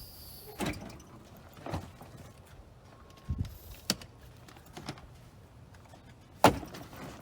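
Luggage being loaded into a pickup truck bed: scattered knocks and rustles, with one loud thump about six and a half seconds in.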